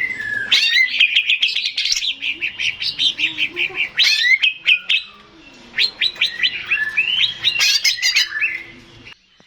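Male green leafbird (cucak ijo) singing a fast run of sharp chirps and whistles, pausing briefly about halfway, then carrying on until it cuts off suddenly near the end.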